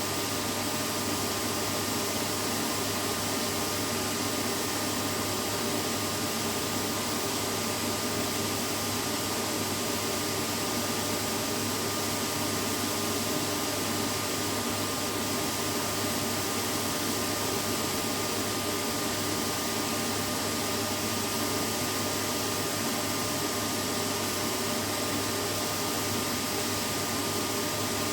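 Vacuum cleaner running steadily: a constant rushing air noise with a faint steady whine over it, unchanging throughout.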